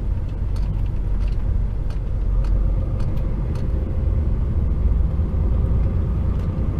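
Diesel engine and road rumble of an HGV tractor unit heard from inside its cab, with scattered light clicks and rattles. A faint steady whine joins in about two seconds in.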